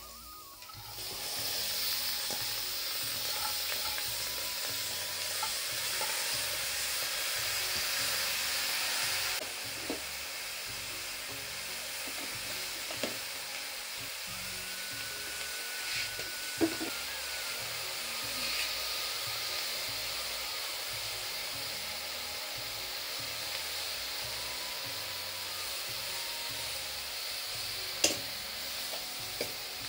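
Chopped papaya flowers sizzling steadily as they fry in a black iron wok, starting about a second in and easing slightly partway through. A few sharp clicks of a spatula against the pan, the loudest near the end.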